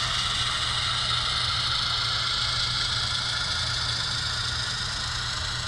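Steady diesel engine sound from an HO scale model diesel locomotive's sound unit, played through its small speaker as the locomotive shoves cars at slow speed. A constant low hum runs under a steady hiss.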